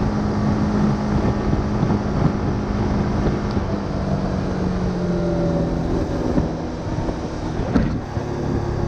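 Single-cylinder engine of a Honda Winner 150 motorbike running at steady cruising speed, with wind rushing over the microphone. Its pitch drops a little past the middle as the bike eases off, and there is a brief knock near the end.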